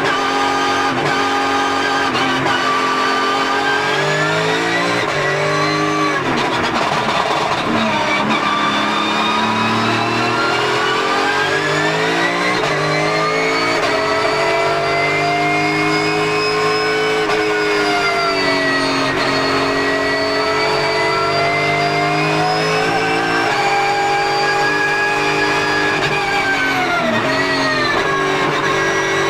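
Porsche GT3 Cup race car's flat-six engine under hard driving. Its pitch climbs through the gears and drops back several times as the car brakes and accelerates.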